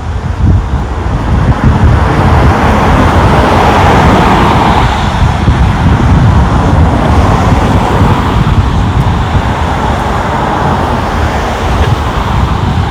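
Road traffic: a vehicle passing close by, its tyre and engine noise swelling a couple of seconds in and slowly fading, over a steady low rumble.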